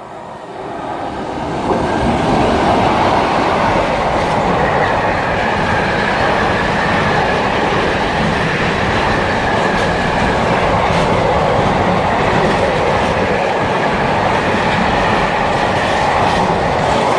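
Freight train hauled by Class 90 electric locomotives passing through at speed: the sound builds over the first two seconds, then the wagons run past in a loud, steady rumble of wheels on rail with a faint high whine.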